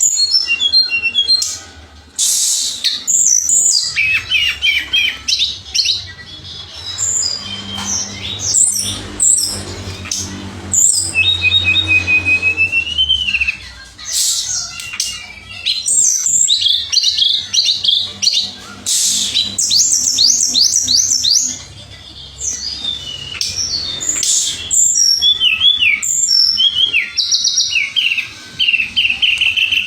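A tledekan songbird singing a varied song of rapid chirps, fast trills and whistled phrases, coming in bursts with short pauses between them.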